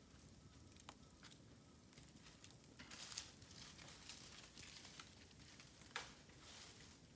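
Bamboo burning in an open fire, crackling faintly with a few sharp pops, the loudest near the middle and about six seconds in.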